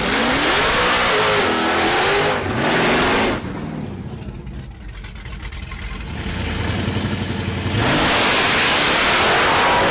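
Drag cars' engines revving up and down in quick sweeps, then dropping to a lumpy, pulsing idle. About eight seconds in, the sound jumps back to a loud full-throttle run.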